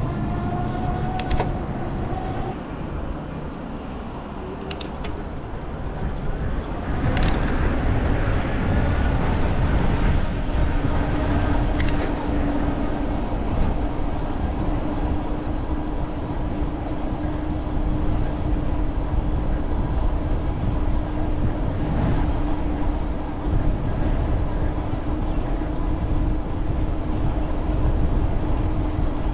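Road and engine noise of a vehicle being driven, a continuous drone with a steady hum that sets in about ten seconds in, and a few short clicks early on.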